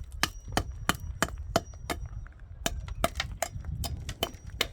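Hammer blows in quick succession, about three to four a second, with a short pause about two seconds in.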